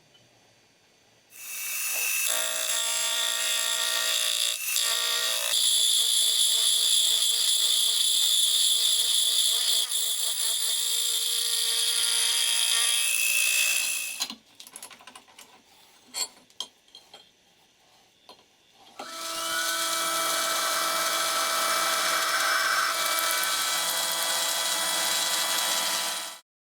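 An electric power tool's motor running steadily with a whine for about twelve seconds, then stopping. After a few clicks and knocks it starts again and runs for about seven seconds before cutting off suddenly.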